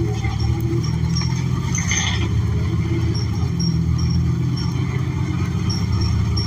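Cabin sound of a New Flyer XN40 transit bus with its Cummins Westport L9N natural-gas engine: a steady low rumble. A brief rattle comes about two seconds in.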